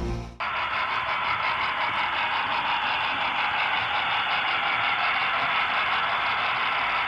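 Two HO-scale AD60 Garratt model locomotives with DCC sound running light, their onboard speakers giving steam-engine running sounds over the steady whir and clatter of motors and wheels on the track, with a faint even beat.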